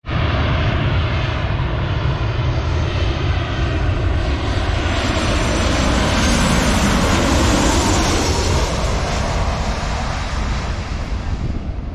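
Jet airliner engines running, a loud steady noise with a heavy low rumble that swells about halfway through and eases off toward the end.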